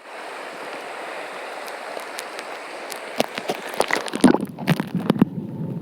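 Mountain stream water running with an even hiss, then from about three seconds in sloshing, clicks and gurgling bubbles as the sound goes under the water and turns muffled.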